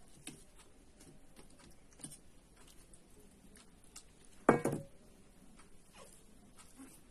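Quiet eating noises: scattered small clicks and smacks of chewing, with one louder short sound about four and a half seconds in.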